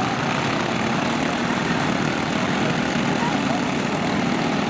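Small lawn tractor engines running together in a steady, continuous din, with voices mixed in.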